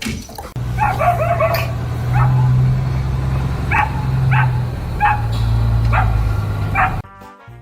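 Dog barking in short, high-pitched calls, a quick string of them about a second in and then single ones roughly every second, over a steady low hum. It all cuts off suddenly near the end.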